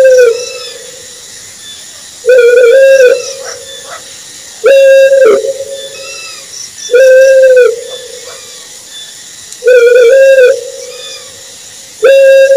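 Owl calling: a series of loud, steady-pitched hoots, each just under a second long, repeating about every two and a half seconds.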